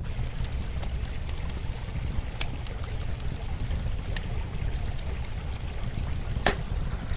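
Running water flowing steadily, with a campfire crackling over it: scattered sharp pops and one louder pop near the end.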